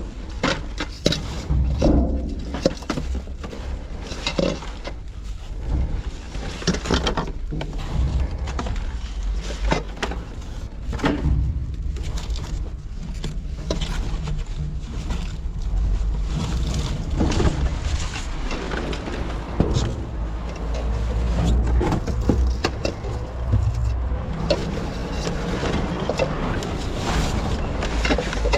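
Rummaging through a dumpster: irregular knocks, clatters and rustles of handled items over a steady low rumble.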